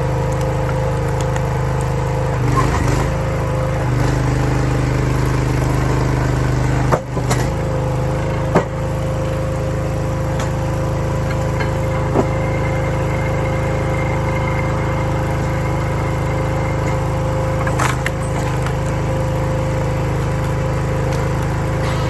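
Small gas engine of a RuggedMade RS-737 log splitter running steadily, its note shifting a few times as the hydraulic ram takes load, with a few sharp cracks and knocks as red oak rounds split, the loudest about seven and eight and a half seconds in.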